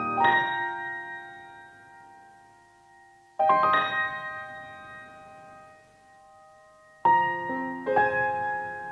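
Background piano music: slow chords, each left to ring and fade, with a new chord about a third of the way in and a quicker run of notes near the end.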